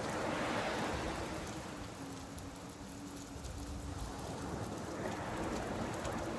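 Rain falling on a beach with surf washing in: a swell of wave noise at the start that eases off, then builds again near the end, over a steady patter of rain. A faint steady low hum runs underneath.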